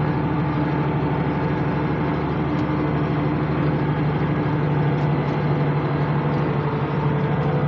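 International 886 tractor's engine running steadily at working speed, pulling a hay baler, with an even low hum.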